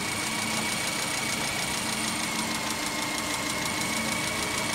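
Subaru Impreza 1.6's flat-four boxer engine idling steadily on LPG, with a faint fast ticking over the running.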